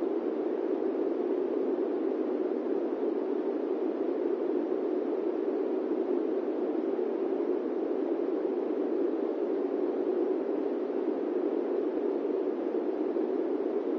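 Steady airplane cabin noise: an even, low rushing hiss with no engine tones, changes or separate events.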